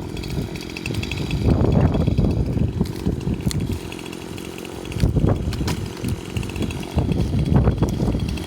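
Chainsaw running and cutting into a rotted tree trunk, the engine surging louder three times, about one and a half, five and seven and a half seconds in.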